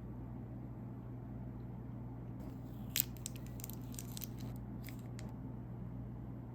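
Plastic snack wrapper crinkling and tearing open in a cluster of sharp crackles lasting about three seconds, loudest near its start. A steady low hum runs underneath.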